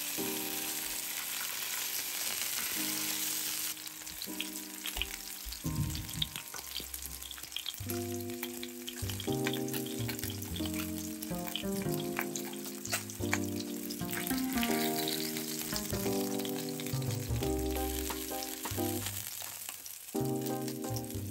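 Food sizzling and spattering in hot oil in a pan, with crackles throughout, loudest in the first few seconds, then quieter under background music with a steady bass line.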